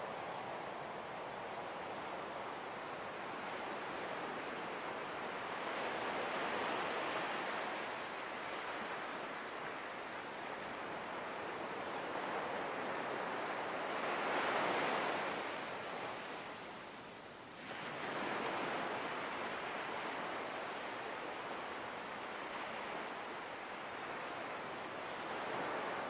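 Ocean surf: waves washing in and out as a steady rushing noise that swells several times, loudest about halfway through, then drops away briefly and comes back suddenly.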